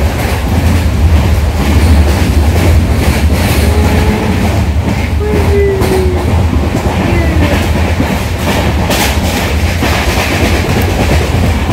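Passenger train running, heard from inside the coach: a steady deep rumble with rail clatter and frequent clicks and rattles.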